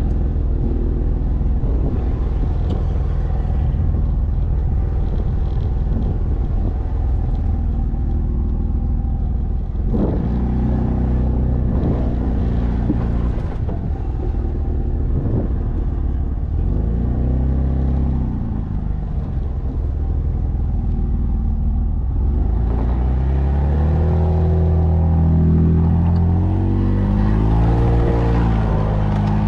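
Jeep Wrangler Unlimited's engine pulling at low speed through soft sand, its pitch rising and falling several times as the throttle is worked. The longest and loudest rise comes near the end.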